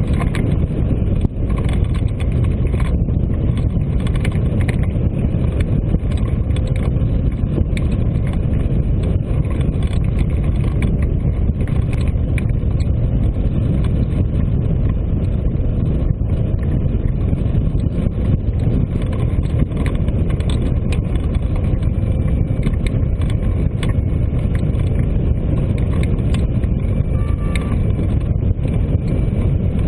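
Steady wind rushing and buffeting over the microphone of a camera carried in hang-glider flight, a loud, low, even rumble.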